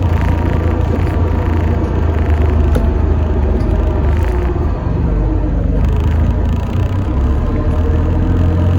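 Alexander Dennis Enviro400 MMC double-decker bus heard from inside while under way: a steady low engine and road rumble with light rattles and clicks.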